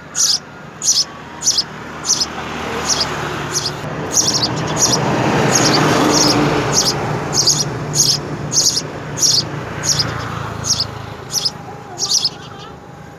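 A small bird chirping steadily: short, high chirps repeated about every two-thirds of a second. A broad rushing noise swells to its loudest about halfway through and then fades.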